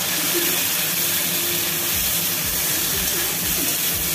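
Potato pieces and spice pastes sizzling steadily in hot oil in an aluminium kadai, with a metal spatula scraping and knocking against the pan as they are stirred, more so in the second half.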